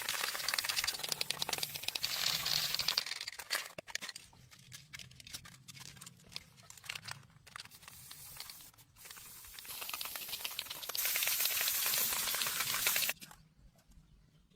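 Hands-on work noise: a dense scratchy rasp for about three seconds, then scattered clicks and taps, then a steady hiss from about ten seconds in that cuts off suddenly near the end.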